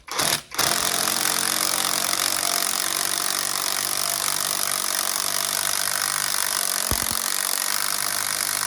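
Cordless power drill driving the belt tensioner's adjusting bolt to slacken the accessory belts on a Mazda MX-5 Mk1 engine. It gives a short burst, then runs steadily for about eight seconds and stops.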